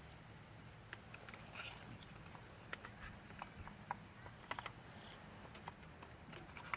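Faint, irregular light clicks and taps of small plastic and metal trimmer parts being handled and fitted together by hand.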